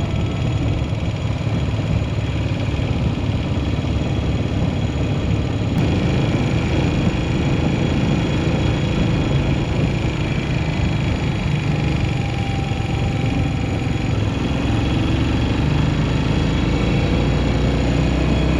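Yamaha SR400's single-cylinder four-stroke engine running steadily.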